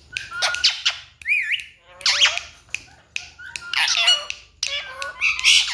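Ringneck parrot squawking and chattering in a run of short, loud calls, some of them whistled notes that rise and fall in pitch.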